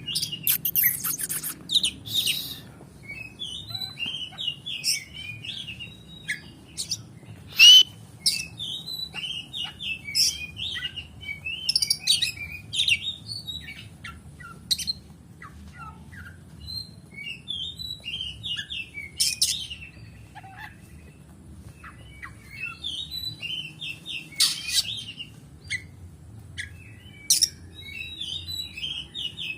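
Oriental magpie-robin (kacer) singing in an agitated 'konslet' style: a rapid, varied run of chirps, whistles and sharp high notes with short gaps. The loudest note comes at about eight seconds.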